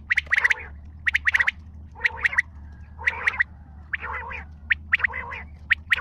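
Quail calling: short bursts of rapid, sharp notes repeating about once a second, over a steady low hum.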